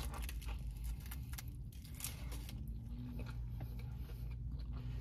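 A person chewing food close to the microphone, with faint scattered crunchy clicks over a low steady hum.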